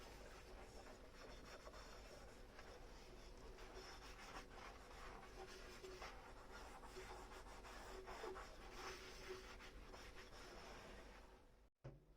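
Faint sponge scrubbing on dishes with soapy foam: a soft, continuous rubbing texture of many small strokes. The sound cuts out abruptly near the end.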